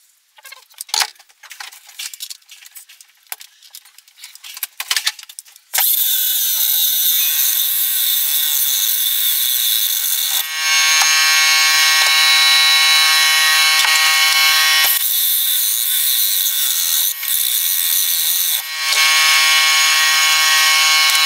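A few seconds of small knocks and clicks, then an electric power tool runs steadily on the steel and brass workpiece, its motor giving a constant whine over a hiss, with brief dips in level.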